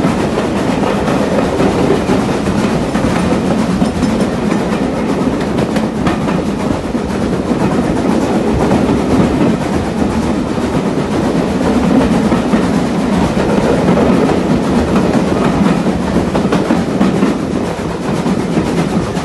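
Steady rumble and rattle of a heritage steam-hauled railway carriage running on the rails through a tunnel, heard from an open carriage window.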